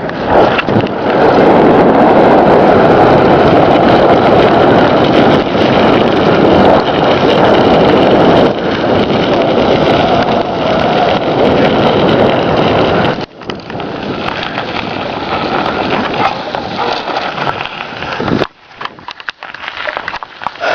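Wind buffeting the microphone of a camera carried on a moving bicycle, mixed with the rush of the tyres on the road. It is loud at first, eases about 13 seconds in, and falls away further about 18 seconds in as the bike slows.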